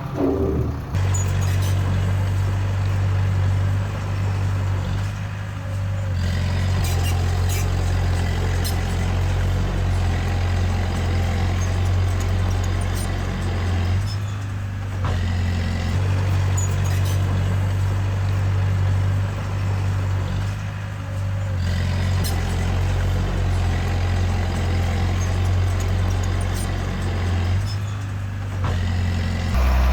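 Diesel engine of a D20A bulldozer running steadily under load. Its note drops briefly about every seven seconds.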